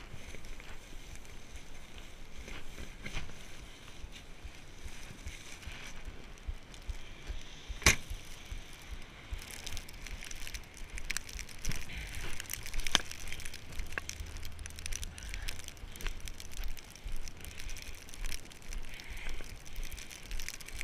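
Irregular crunching and rustling of footsteps and handling in snow, with one sharp knock about eight seconds in. Wind buffets the microphone in a low rumble in the second half.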